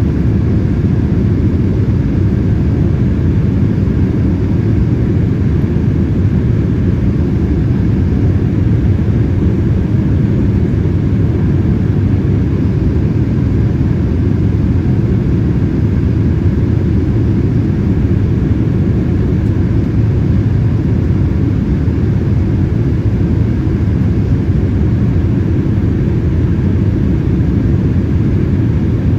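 Steady cabin noise inside a Boeing 787-8 airliner in flight: an even, low rumble of engine and airflow that does not change.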